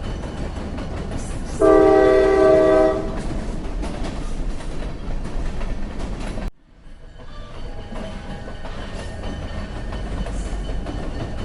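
Train running along the track with a steady low noise; about two seconds in, its horn sounds once for just over a second, several tones together. Past the middle the sound drops out abruptly, then builds back to the steady running noise.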